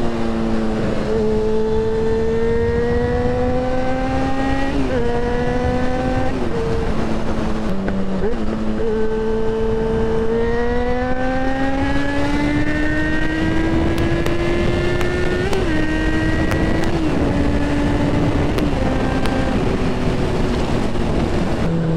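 Yamaha XJ6N's 600 cc inline-four engine under way, its pitch climbing slowly in each gear and dipping briefly at several gear changes, over a steady rush of wind noise.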